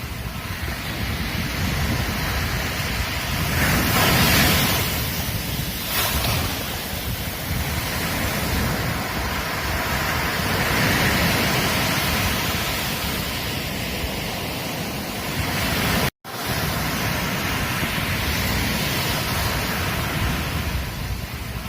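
Ocean surf breaking and washing on a beach, a continuous rushing that swells and ebbs as each wave comes in. The sound cuts out for a split second about three quarters of the way through.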